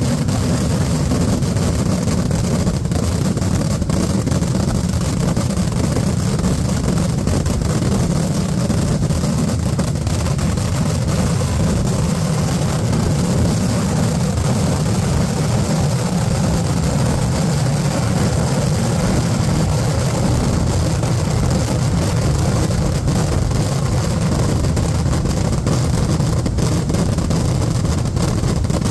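A continuous barrage of Kerala temple-festival fireworks (vedikettu), the dense bursts merging into one steady, heavy rumble.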